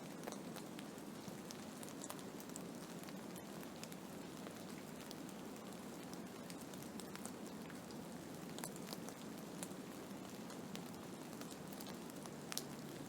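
Blizzard ambience: a steady hiss of wind-driven snow, with scattered light ticks of snow or ice striking a surface.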